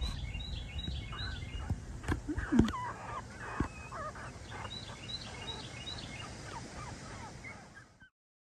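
Outdoor birdsong: a bird repeats a phrase of quick, high chirps twice, with other calls among them and a few light knocks. The sound cuts off just before the end.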